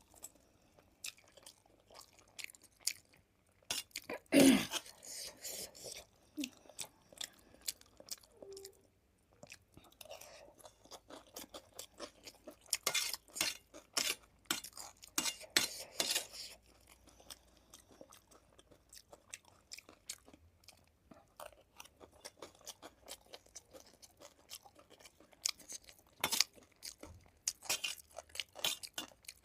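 A person chewing and crunching food close to the microphone, with wet crackling bites that come in irregular runs. A louder mouth sound stands out about four seconds in.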